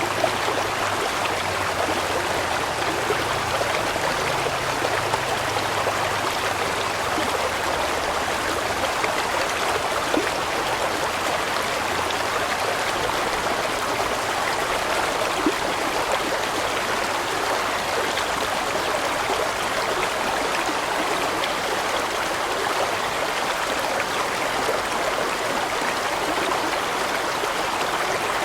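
A large mountain stream flowing steadily over rocks, a continuous rushing and gurgling of water.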